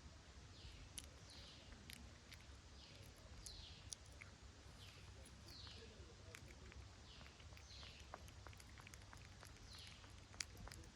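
Faint, thin, high-pitched animal calls, each sliding down in pitch, repeated about once a second, with scattered small clicks.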